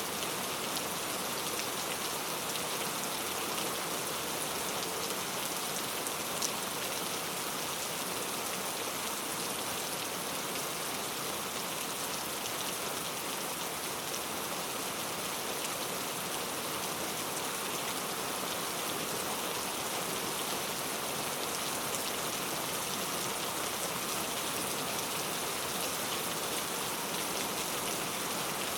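Steady rain falling, a dense even hiss with scattered drop ticks and one sharper tick about six and a half seconds in.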